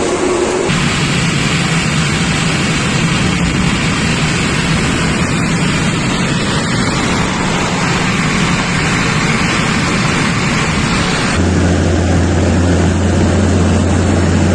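Loud, steady noise of a Be-200 amphibious aircraft's turbofan engines, changing character abruptly twice: about a second in, and again about three seconds before the end, when a steady low hum joins it.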